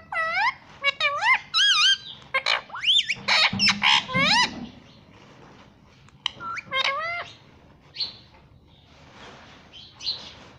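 Indian ringneck parrot calling: a rapid string of short squawks and chirps that sweep up and down in pitch, a second cluster about six seconds in, then a few fainter calls.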